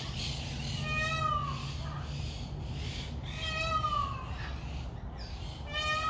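A bird calling three times, about two and a half seconds apart. Each call is a short, meow-like wail that drops in pitch at its end.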